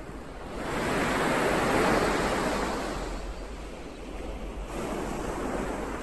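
Ocean waves washing onto a shore: one wave swells in about half a second in, is loudest near two seconds and ebbs away by about four seconds, with a smaller surge near the end.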